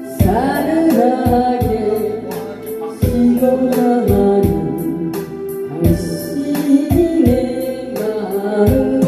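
A singer comes in just after the start with a Korean pop song, over electronic organ accompaniment and a steady drum-machine beat.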